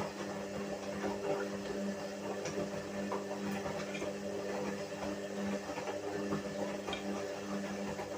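Whirlpool washing machine running, its motor giving a steady hum that pulses slightly, with a few faint clicks.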